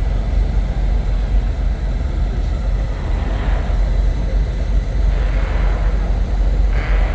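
Diesel semi truck engines idling with a steady low rumble, with short hissing bursts three times in the second half.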